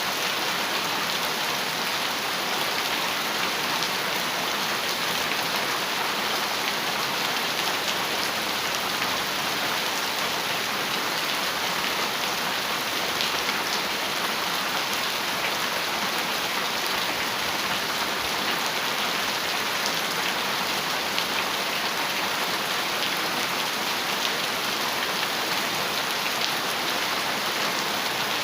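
Heavy, steady rain drumming on a metal roof, a dense wash of countless drops with faint individual drop ticks.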